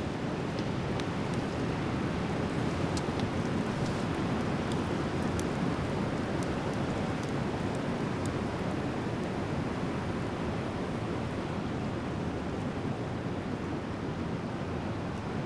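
Driftwood fire crackling, with a few faint sharp pops in the first half, over a steady rushing noise.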